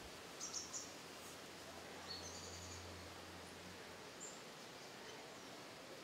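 Faint, high-pitched bird chirps. There are a few short notes about half a second in, a longer trilled note about two seconds in, and one more short note a little after four seconds.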